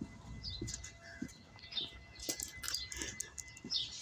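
Small birds chirping in short, scattered calls, over a faint steady high tone, with a few soft low thuds.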